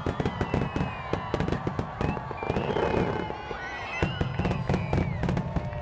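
Fireworks finale: a dense, rapid run of bangs and crackles, with some gliding whistle-like tones above them.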